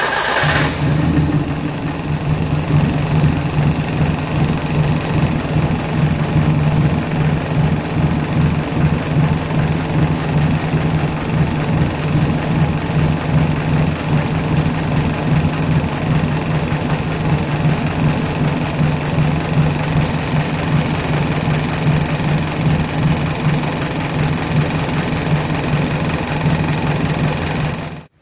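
Suzuki SJ410's F10A four-cylinder engine idling steadily just after starting, its valve lash freshly set to 0.10 mm intake and 0.15 mm exhaust. The sound cuts off abruptly at the end.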